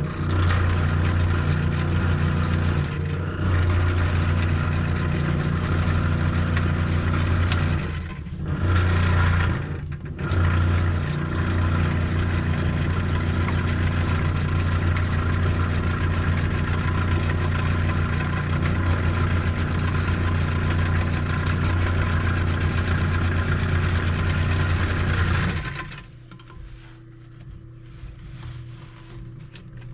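1949 Singer 151W3 walking foot industrial sewing machine running and stitching a seam, with a steady hum from its motor and mechanism. It slows or pauses briefly about 3, 8 and 10 seconds in, then stops about 26 seconds in, leaving a fainter steady hum.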